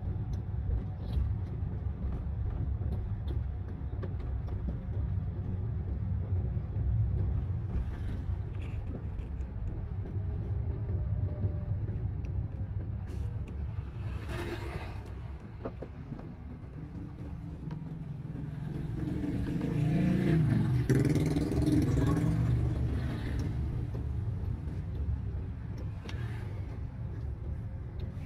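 Daihatsu Sigra manual car heard from inside the cabin, engine running low and steady in third gear while creeping slowly, with tyre and road rumble. A vehicle goes by briefly about halfway through, and the engine note swells louder for a few seconds about three quarters of the way through.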